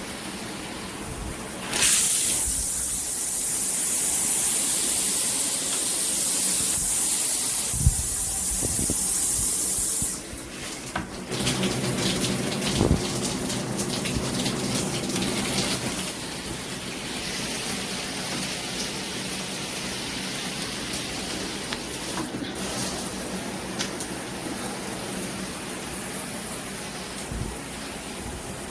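Shower head spraying water. A loud hiss of spray starts about two seconds in and cuts out at about ten seconds. A softer, steady spray then runs on.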